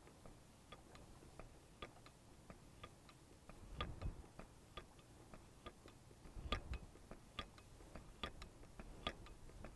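Faint, steady light ticking, about three clicks a second, with a couple of soft thumps about four and six and a half seconds in.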